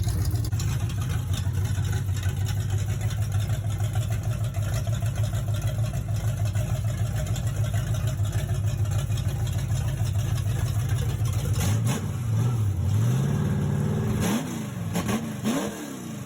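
Small-block Ford 351 Windsor V8 idling steadily, then revved a few times about twelve seconds in, its pitch rising and falling.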